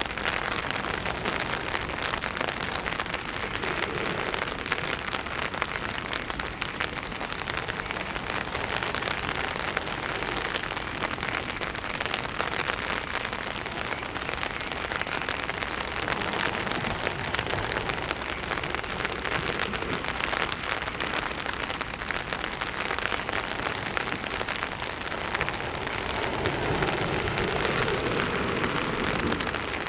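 Steady rain falling on surfaces, a dense even patter with fine drop crackle.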